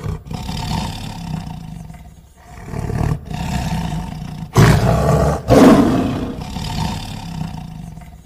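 A large wild animal giving a deep, rough roar, in several drawn-out phrases with two loudest bursts about halfway through.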